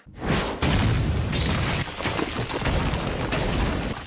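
Anime sound effect: a sudden heavy boom followed by continuous loud rumbling.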